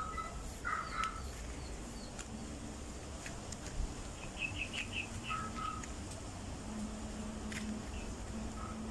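Birds chirping: a few short calls near the start, a quick run of five high notes about halfway through, and another short call just after.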